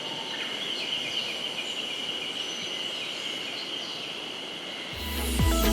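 Woodland ambience: small birds chirping over a steady high-pitched drone. Background music with a beat comes in near the end.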